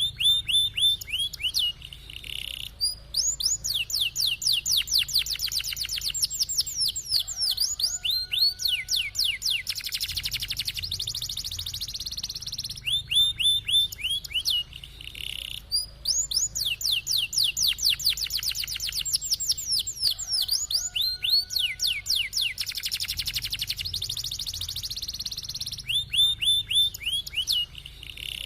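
Domestic canary singing continuously, with long, fast rolling trills of repeated downward-sweeping notes alternating with short phrases. The same run of phrases comes round again about every 13 seconds.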